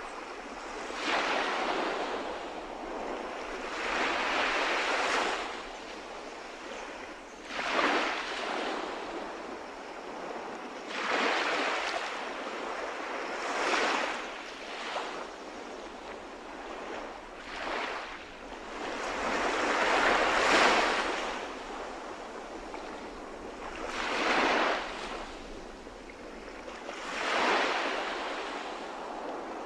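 Calm sea waves breaking and washing onto the shore, each one swelling into a hiss and fading, one every three seconds or so.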